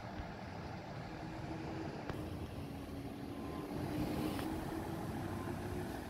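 Fire truck engine running steadily, swelling to its loudest about four seconds in and easing off, with a short click about two seconds in.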